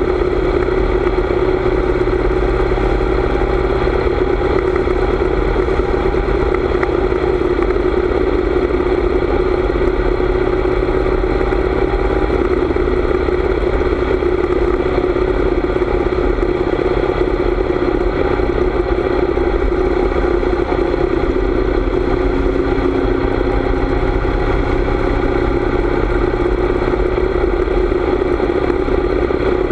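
Harley-Davidson V-twin motorcycle engine running steadily while riding at an even speed, with wind rushing over the microphone.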